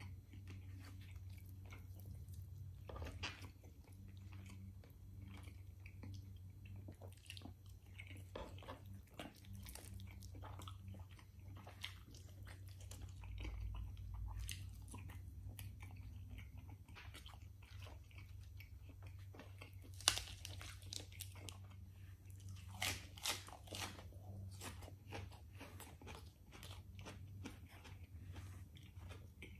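Close-up chewing and biting of rotisserie chicken, with many short wet mouth clicks and smacks, the sharpest about two-thirds of the way through. A steady low hum runs underneath.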